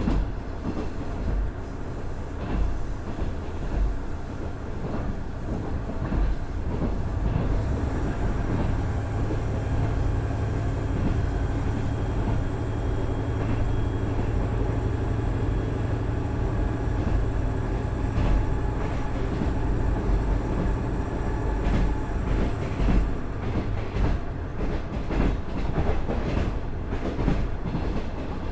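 KiHa 110 series diesel railcar running, its Cummins DMF14HZA diesel engine giving a steady low drone from about 8 seconds in that fades after about 22 seconds. Wheels click over the rail joints throughout, more densely near the end.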